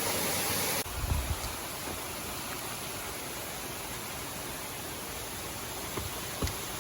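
Steady rushing noise of falling water from a waterfall, with a few brief low thumps about a second in and again near the end.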